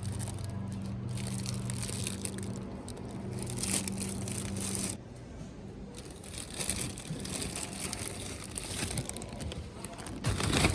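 Crinkling and rustling handling noises, over a steady low hum that stops about five seconds in.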